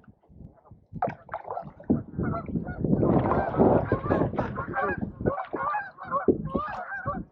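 Geese honking, a quick run of short calls starting about a second in, several overlapping at once.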